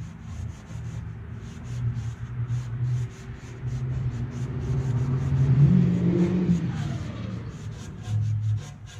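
A car drives past, swelling to its loudest about six seconds in. Under it, a rag scrubs a chrome exhaust tip with cleanser in quick, even rubbing strokes, several a second.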